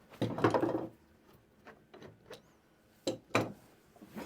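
Clamps being released and lifted off a wooden table saw sled: a rattling scrape in the first second, then a few light clicks and two sharp knocks about three seconds in.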